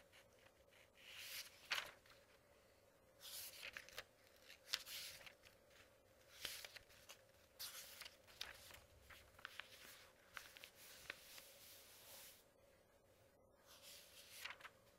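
Paper pages being turned, rustling and crackling in several bursts with short quiet gaps between them. A faint steady hum lies underneath.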